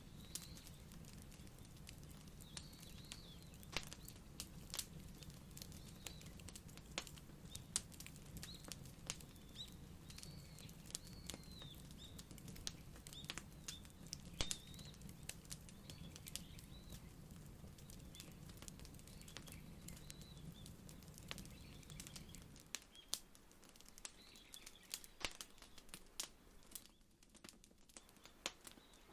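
Wood fire crackling faintly, with irregular sharp pops and snaps. A low steady rumble underneath stops about three quarters of the way through.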